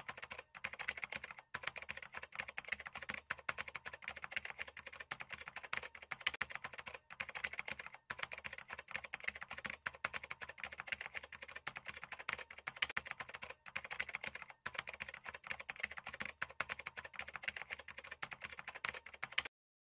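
Fast typing on a computer keyboard: a steady run of key clicks with a few short pauses, stopping shortly before the end.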